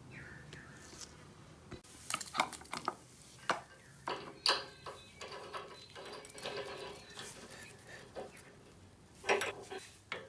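Metal clinking and knocking, a string of short sharp clanks, as hydraulic hose fittings and tools are handled during work on a scissor lift's hydraulic line.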